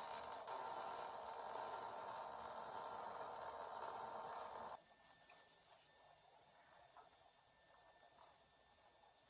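MIG welder arc crackling steadily while a roll-cage tube is welded, stopping abruptly about halfway through. A few faint small handling noises follow.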